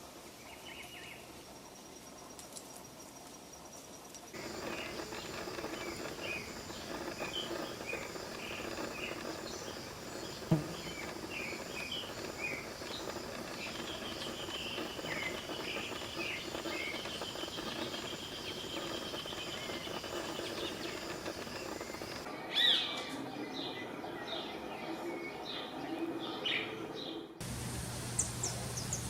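Several wild forest birds chirping and whistling over a steady natural background, including a long high trill. The mix of calls changes abruptly a few times. One sharp click stands out about ten seconds in.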